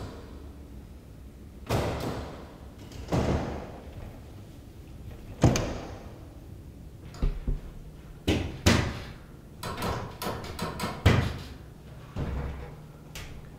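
Glass entrance doors being shoved and yanked by their metal push bar, banging and rattling in their frames in about a dozen separate jolts, with a quick run of rattles a little past the middle.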